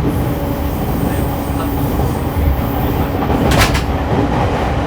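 E231-1000 series commuter train running at speed, heard from inside the passenger car: a steady rumble of wheels on rails. A brief sharp clatter comes about three and a half seconds in.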